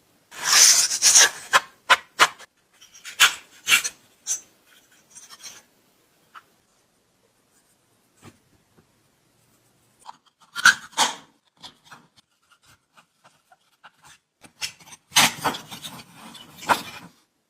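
Hand rubbing and scraping strokes on the old blade sharpener's parts, in short irregular bursts with pauses between, the busiest stretches near the start and near the end.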